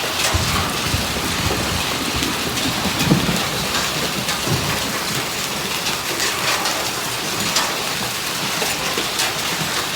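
Hailstones pelting down in a hailstorm: a dense, steady clatter of many small sharp impacts on the ground and surfaces around.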